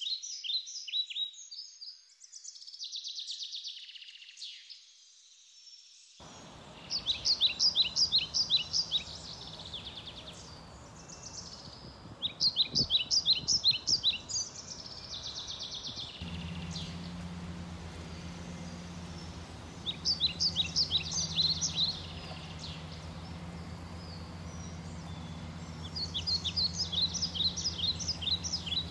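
A songbird singing, repeating short phrases of quick high chirping notes every few seconds over steady outdoor background noise. A low steady hum comes in about halfway through.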